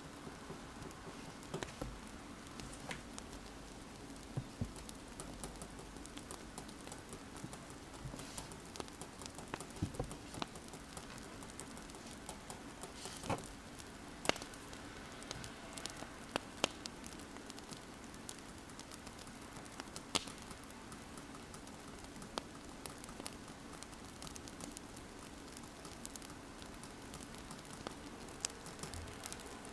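Wood fire crackling, with scattered sharp pops over a steady soft hiss, and a pen scratching on paper.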